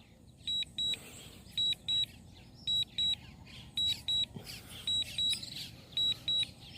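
Warning alert from a DJI drone remote controller and flight app: high electronic double beeps repeating about once a second, six pairs in all.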